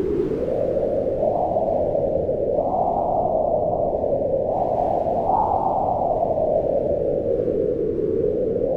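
Wind blowing steadily, a low rushing sound whose pitch swells and falls with slow gusts.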